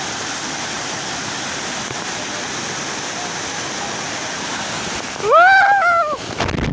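Batang Koban waterfall rushing steadily. About five seconds in, a short high-pitched call rises and falls for about a second over the water noise.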